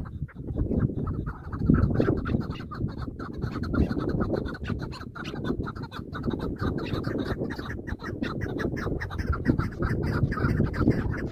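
Chukar partridges calling with rapid, repeated clucking, over a low rumble.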